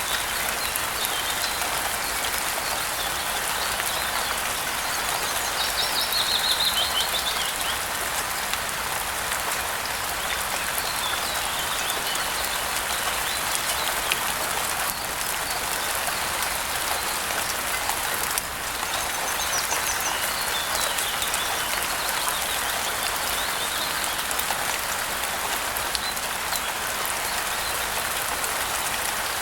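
Steady rain falling, with a short burst of bird chirps about six seconds in and fainter chirps around twenty seconds in.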